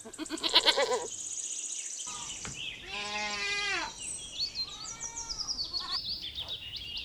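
Goat bleating three times: a short wavering bleat at the start, a louder one about three seconds in and a fainter one about five seconds in. Small birds chirp in the background.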